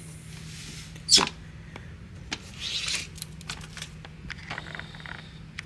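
Handling noise from a plastic box fan being moved and set back in place: one sharp knock about a second in, then lighter clicks and a brief rustle, over a faint steady low hum.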